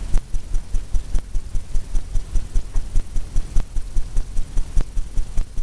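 Brush working paint on a stretched canvas in quick circular strokes, making a steady rhythmic low thumping of about four beats a second.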